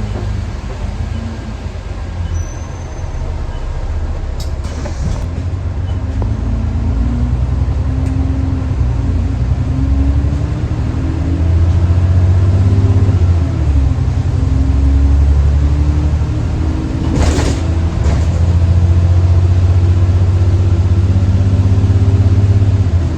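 Bus engine running under way, its pitch climbing and dropping back several times as it pulls, with a short hiss about 17 seconds in. It no longer makes the vacuum-cleaner-like whine that earned it the nickname 'Hoover'.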